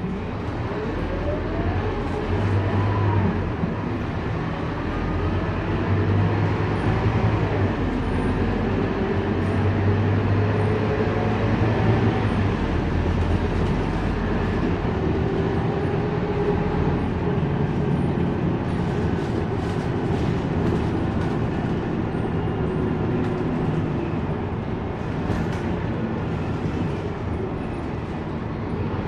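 Scania K230UB city bus running under way: a steady diesel engine hum with road noise, and a whine that rises in pitch in the first few seconds as it accelerates.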